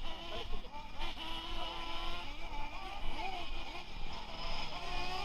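Brushless electric motor and gearing of a 1/10-scale RC truck whining, its pitch gliding up and down with the throttle as the truck runs.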